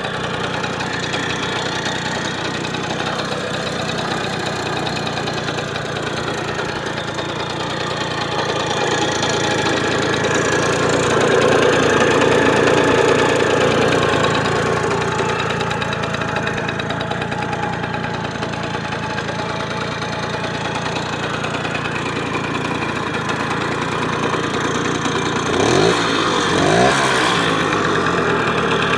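Simson SR2E moped's single-cylinder two-stroke engine idling steadily, with two quick blips of the throttle near the end.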